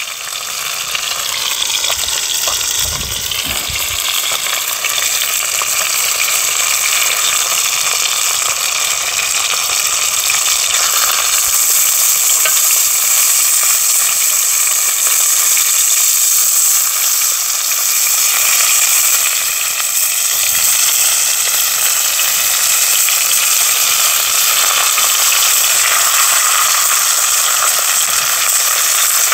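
Battered sea bass cutlets frying in hot oil in a pan, giving a steady sizzle that builds a little over the first few seconds.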